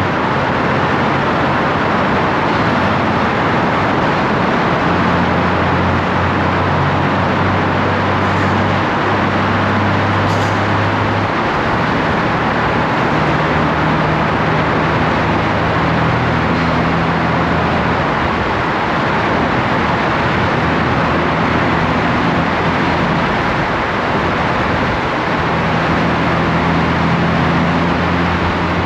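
Honda Gold Wing DCT motorcycle riding at speed: a steady rush of wind and road noise over the low hum of its flat-six engine, which shifts pitch in steps a few times.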